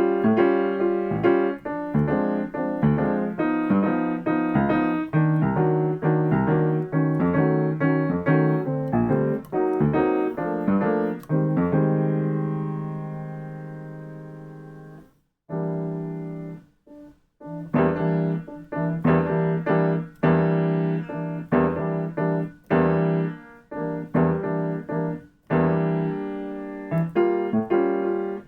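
Piano playing jazz comping rhythm patterns: short, rhythmic chords over a steady bass note. About twelve seconds in, a held chord dies away, then comes a brief stop and a few short stabs before the pattern starts again.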